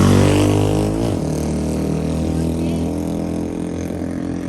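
A motor vehicle's engine running close by, loudest at the start, its pitch dropping about a second in and then holding steady.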